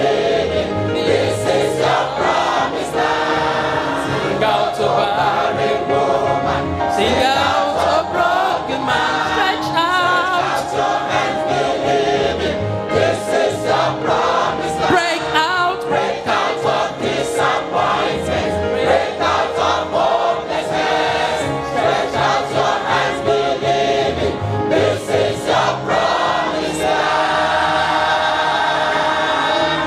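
Choir singing a gospel song with band accompaniment and a steady beat.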